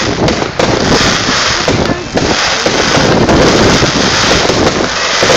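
Loud, rushing noise of wind buffeting a phone's microphone, with crowd voices underneath and sudden jumps in loudness.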